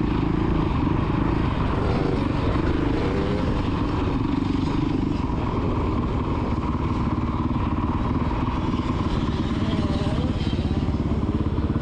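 Dirt bike engine running steadily close by, holding an even pitch, with faint rises and falls in engine note a couple of times.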